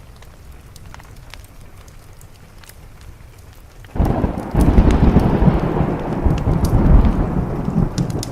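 Wood fire crackling with light rain, then about four seconds in a sudden loud thunderclap breaks in and rolls on, easing off slightly.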